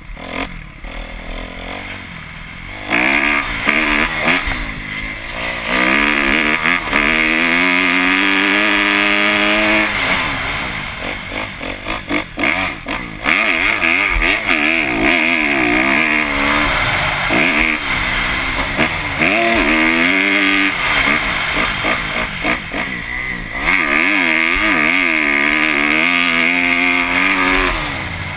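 Kawasaki KX250F four-stroke single-cylinder motocross engine under hard riding, its pitch climbing and falling again and again as the throttle is worked through the gears. A couple of times the throttle is shut and the engine drops back before revving up again.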